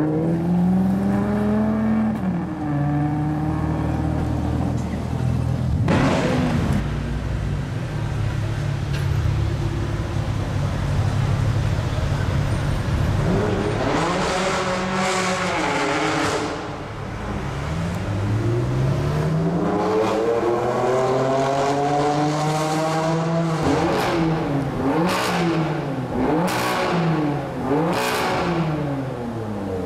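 High-performance supercar engines revving and accelerating, the pitch climbing and falling again and again, with a sharp pop about six seconds in. Near the end comes a run of quick rev blips, several a few seconds apart.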